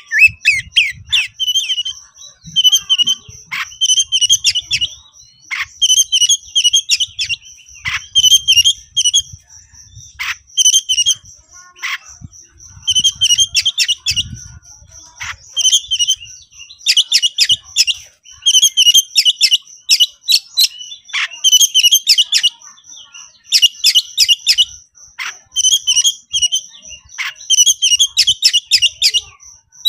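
Oriental magpie-robin (kacer) singing in rapid, repeated bursts of chirps and whistles every second or two, the fast excited 'konslet' style used to provoke rival birds. A steady thin high tone runs under the song.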